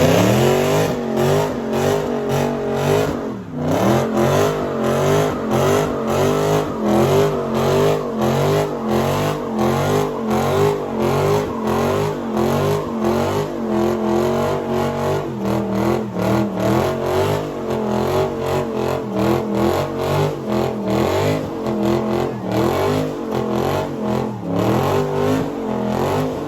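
Car engine held at high revs and revved repeatedly, its pitch rising and falling about twice a second.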